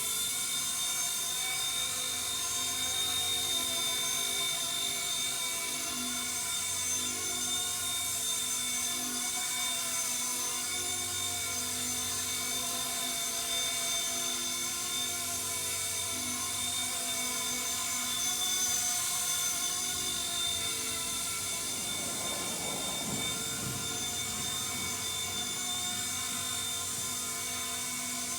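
Small electric radio-controlled MD500 scale helicopter (C-189) in flight: a steady high motor whine with its rotor sound, having spun up to speed just before.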